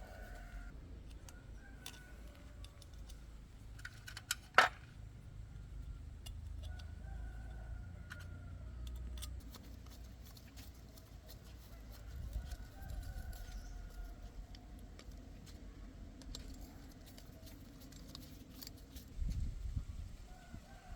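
Chickens clucking, soft calls every few seconds over a low steady rumble, with scattered sharp clicks and taps and one loud click about four and a half seconds in, and a dull thump near the end.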